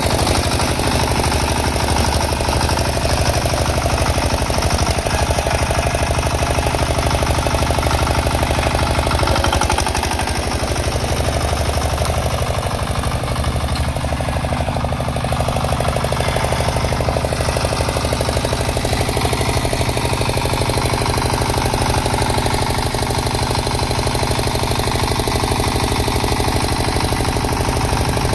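6 hp Field Marshal single-cylinder diesel engine running steadily with a rapid, even knock, dipping slightly in level about ten seconds in.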